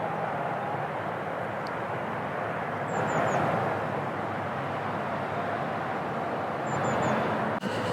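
Steady outdoor rumble of distant engine noise, with two brief sets of three short high chirps, one about three seconds in and one near the end.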